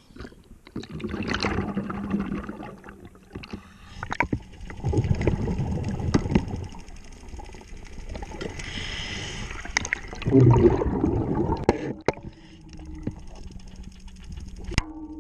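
Scuba diver breathing on a regulator underwater: an inhale hiss, then rushing, gurgling surges of exhaled bubbles, with scattered sharp clicks.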